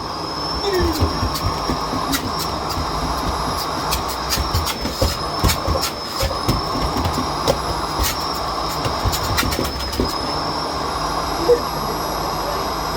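Miele Blizzard CX1 bagless vacuum cleaner running steadily with a high motor whine, with scattered clicks and rattles of debris being sucked up.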